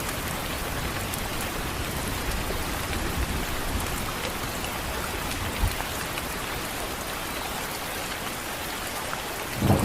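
Steady rain falling, with a deep rumble of thunder rising just before the end.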